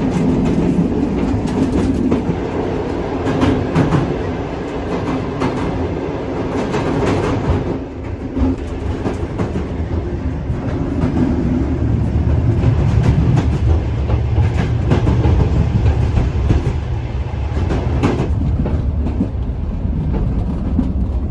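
Soviet sleeper train rolling along the track: a steady low rumble of the carriage with the wheels clacking over rail joints now and then, the rumble swelling somewhat in the second half.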